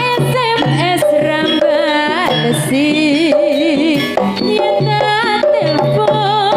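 Campursari music: a band playing a wavering, vibrato-laden melody over a steady bass, driven by Javanese hand drum (kendang) strokes.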